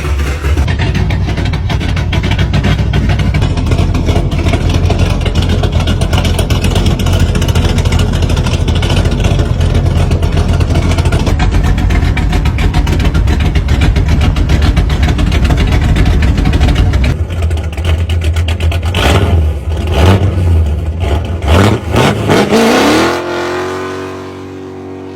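Muscle car engine running with a heavy, pulsing exhaust rumble, then revved sharply several times about three-quarters of the way through before settling to a quieter, steady note that fades.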